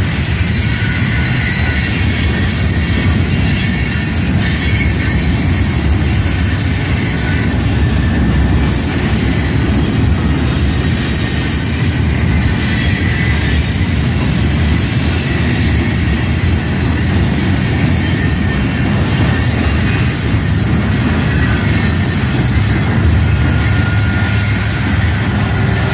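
Loaded freight gondola cars rolling past at close range: a steady loud rumble of wheels on rail with a continuous high squeal from the wheels. Near the end a diesel locomotive's engine joins in with a deeper hum.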